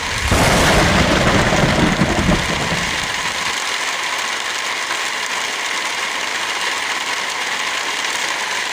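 Heavy rain falling with a steady hiss. A deep low rumble swells in just after the start and fades out about three seconds later.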